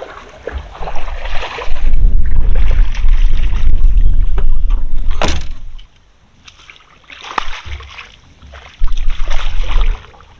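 Sloshing water and knocking around a kayak as a big bass is brought in, under heavy low rumbling on the microphone in two long stretches, with one sharp knock about five seconds in.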